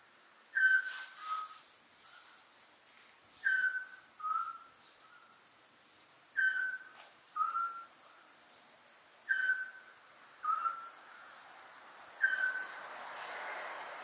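A bird's clear two-note whistled call, a higher note then a slightly lower one, repeated five times about three seconds apart, with fainter whistles in between. A soft rushing noise swells near the end.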